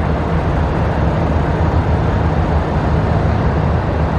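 Steady low rumble with an even hiss over it, without distinct events.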